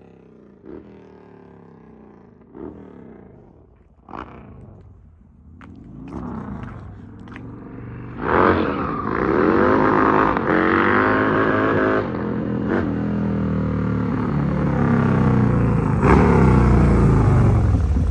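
Harley-Davidson Twin Cam V-twin running through a DND exhaust on a ride. The engine note shifts in pitch at a moderate level with three sharp clicks in the first four seconds, then gets much louder about eight seconds in as the engine revs up and pulls hard, and stays loud to the end.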